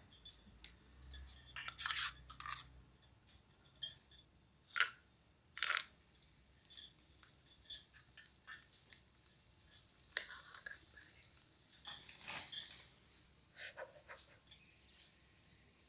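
Small sharp metal clinks and taps of a tiny spoon against a miniature pan as cashews and raisins are added and stirred in ghee, scattered irregularly. A faint frying hiss comes in under them from about halfway.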